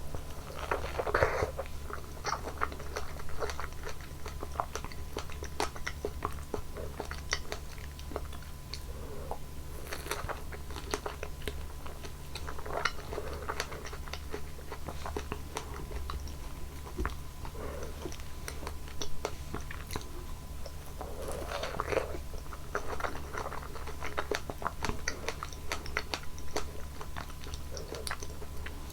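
Close-miked biting and chewing of fresh fruit, wet and crunchy with many small crackles. Bigger bites come about a second in, near ten seconds and around twenty-two seconds, with steady chewing between.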